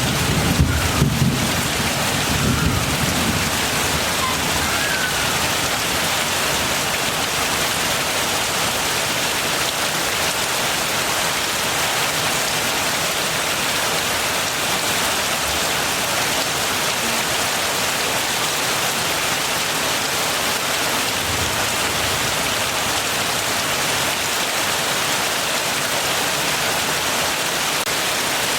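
Heavy rain falling steadily, an even hiss. A low rumble of thunder fades out over the first few seconds, and a brief faint rumble comes again about three-quarters of the way through.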